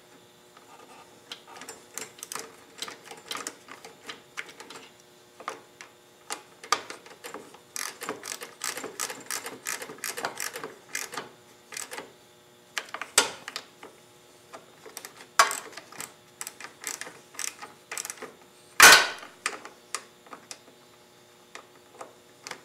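Hand socket ratchet clicking in runs as fasteners on the mower's air filter housing are tightened down, with one louder sharp clack of metal on metal near the end.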